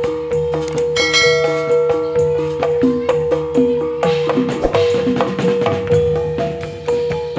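Javanese gamelan music for a gedruk dance: pitched metallophones repeat a short melody over a steady beat of drum and percussion strokes. There is a burst of high ringing notes about a second in, and the playing grows busier from about four seconds.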